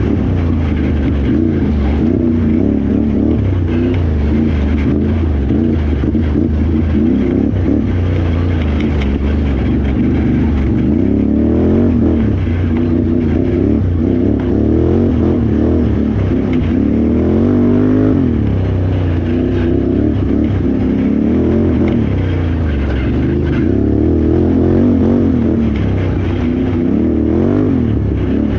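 Can-Am Renegade XXC 1000R ATV's V-twin engine revving hard and backing off again and again under racing load, its pitch rising and falling every second or two.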